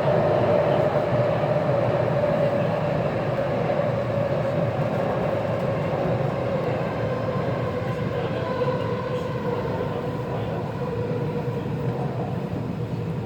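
Taipei Metro C341 train running with a low rumble, heard from inside the car, while its motor whine slowly falls in pitch as the train slows for the station.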